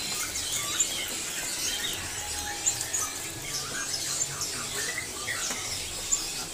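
A crowd of small caged songbirds chirping and squeaking over one another in quick, overlapping short calls.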